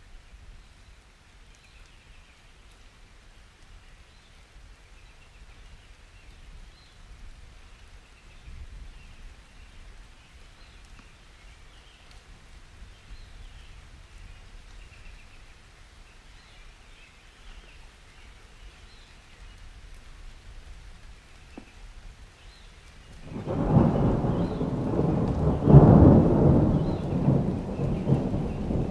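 Steady light rain with faint bird chirps, then about twenty-three seconds in a loud clap of thunder breaks in suddenly, peaks a few seconds later and rolls on.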